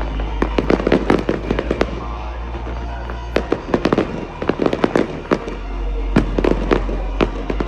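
Fireworks display: rapid sharp bangs and crackles of bursting shells, coming in three dense volleys, with music playing underneath.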